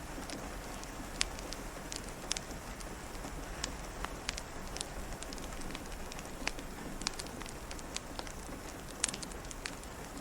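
Wood fire crackling, with scattered sharp pops over a steady hiss of rain.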